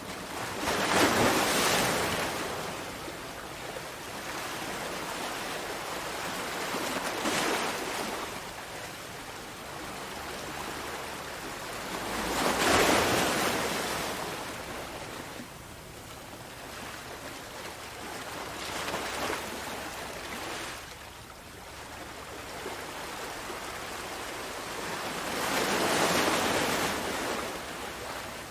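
Sea waves breaking on a shore: a surge of surf about every five to seven seconds, with a steady wash of water between the breaks.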